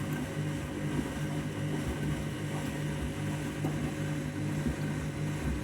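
Candy Grand'O Vita 7kg washing machine spinning at speed: a steady motor hum with drum rumble.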